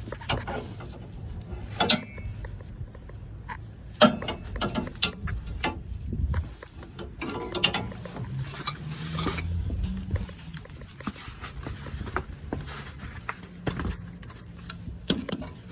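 Metal clicks and knocks from releasing a tie-down strap holding a stuck spare tire under a Chevy/GM pickup. The knocks are irregular, with sharper knocks about two and four seconds in and a brief metallic ring at the first of them.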